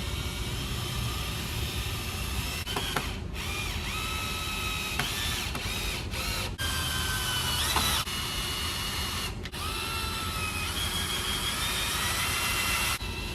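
Cordless drill driving screws into scrap wood: several short runs in a row, the motor whining up in pitch at each trigger pull and then holding steady.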